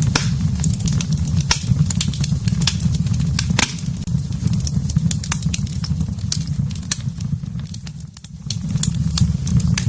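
Wood fire in a fireplace crackling, with frequent sharp pops over a steady low rumble that briefly drops away near the end.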